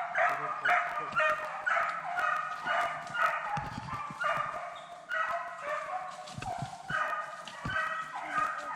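Deer hounds barking repeatedly, about two barks a second, the cry of dogs running a deer's track. A few low thumps sound in between.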